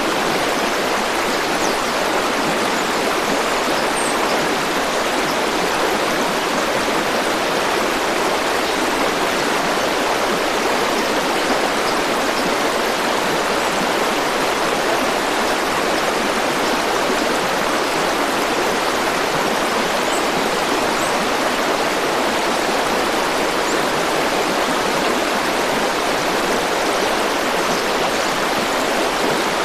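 River or stream water flowing, a steady rushing hiss with no change in level.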